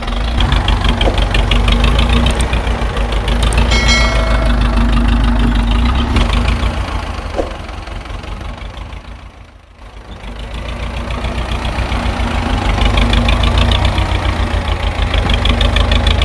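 Mini tractor's engine running with a rapid, even pulsing beat. It fades down to a low point about ten seconds in, then builds back up.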